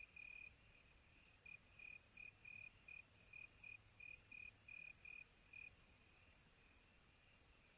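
Crickets chirping at night: a steady trill breaks into short, even chirps, about three a second, that fade out after about five and a half seconds, with fainter high chirping and a high insect hiss behind.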